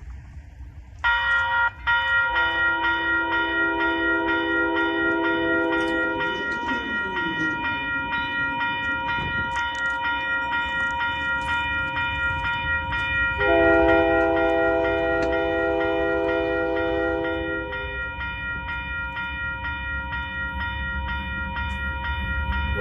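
Railroad crossing bell starts ringing about a second in, a rapid steady ding. Over it, an approaching locomotive's air horn sounds two long blasts, the first a couple of seconds in and the second about halfway through.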